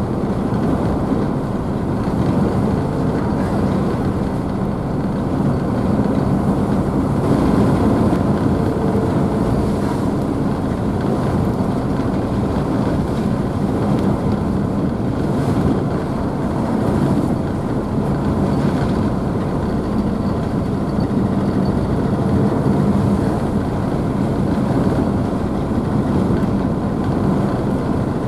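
Car ferry's engines running steadily with a low hum under the rush of churning wake water and spray, with some wind on the microphone.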